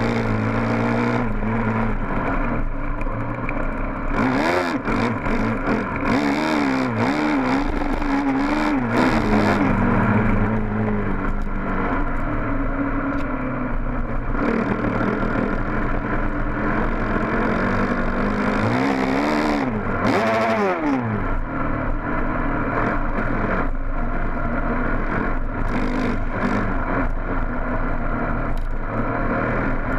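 Honda dirt bike engine running under a rider's throttle, its pitch repeatedly climbing and dropping, with a sharp rev-up and fall about twenty seconds in. Scattered clatter runs through it.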